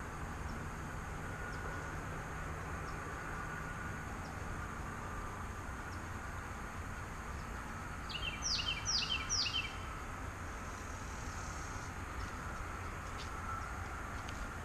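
A bird calling three quick notes in a row, each sliding down in pitch, about eight seconds in, over a steady low outdoor background noise.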